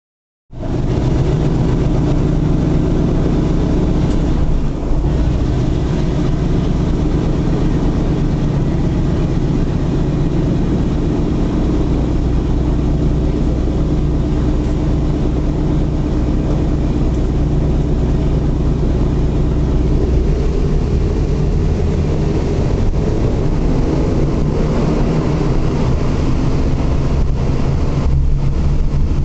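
The Wright Cyclone radial engines of a Boeing B-17 Flying Fortress running steadily, a loud, deep drone with several low tones. It cuts in suddenly from silence at the start.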